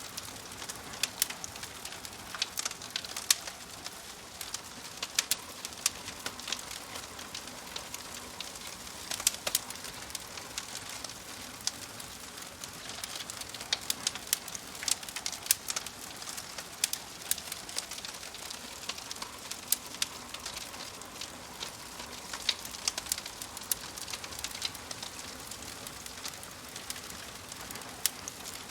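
Wood fire crackling: frequent, irregular sharp pops and snaps over a steady soft hiss.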